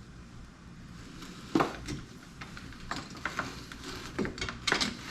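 Metal clinks and knocks from hand tools on a hydraulic steering cylinder as its disassembly begins. There is a sharp knock about a second and a half in, then a string of lighter clicks and taps.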